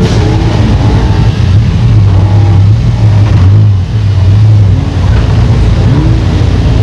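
Several demolition-derby car engines running and revving loudly, their pitch rising and falling, over a steady low drone.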